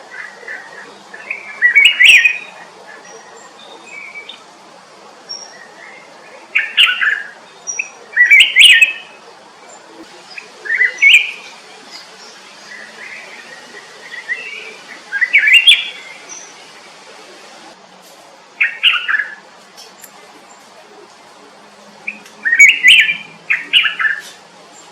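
A songbird singing short, loud chirping phrases every few seconds, with fainter high chirps in between.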